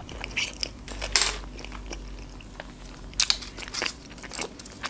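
Close-miked chewing of a large Philadelphia sushi roll of salmon and cream cheese: wet mouth smacks and clicks, with a few sharper ones about a second in and around three seconds in.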